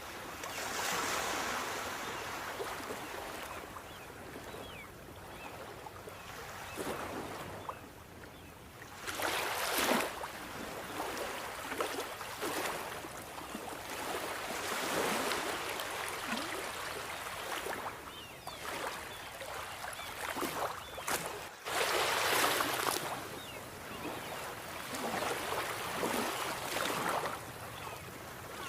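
Sea waves breaking and washing on a shore, a steady rush with surges as waves break, the loudest about ten seconds in and again a little past the two-thirds mark.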